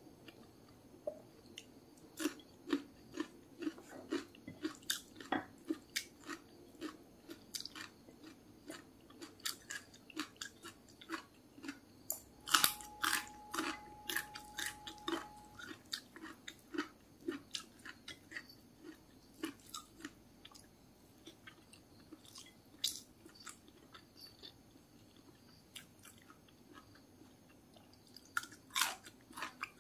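Close mouth sounds of someone eating: moist chewing with many short clicks and crunches, louder crisp crunching in the middle and again near the end as a raw long bean is bitten. A faint steady tone sounds for about three seconds in the middle.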